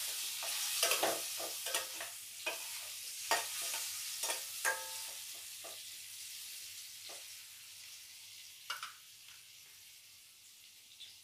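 Pumpkin cubes sizzling in hot oil in a stainless steel kadai, with a spatula scraping and clicking against the pan as they are stirred over the first five seconds or so. A couple of knocks follow later, and the sizzle grows quieter toward the end.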